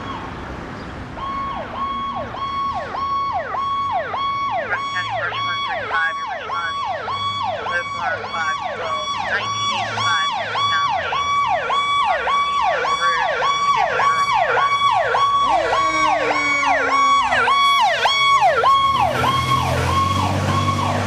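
Fire engine's electronic siren cycling fast, about two sweeps a second, each holding a high tone and then dropping sharply, growing louder as it comes closer. A slower falling tone joins in past the middle, and a low engine rumble rises near the end.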